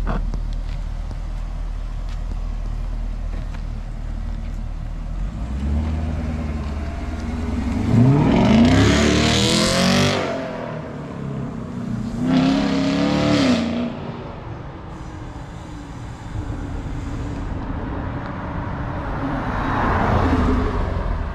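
Chevrolet Camaro V8 idling, then accelerating hard about eight seconds in, its engine revving up in a rising pitch before breaking off at a gear change, and revving hard again around twelve seconds. Near the end the car drives back past close by.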